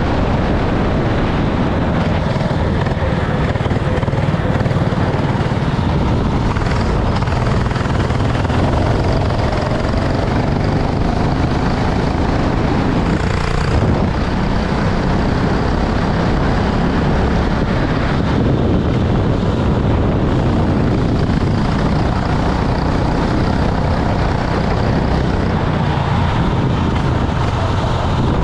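Racing kart engine running steadily, its pitch wavering slightly, under a dense, even hiss.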